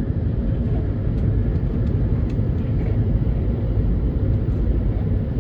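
Shinkansen bullet train running: a steady low rumble with a few faint ticks.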